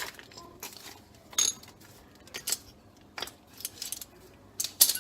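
Small metal objects clinking and rattling in a string of sharp, light knocks, some ringing briefly, the loudest just before the end.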